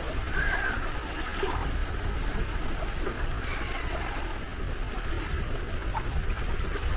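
Sea waves washing on the shore in a steady wash of surf, over a constant low rumble.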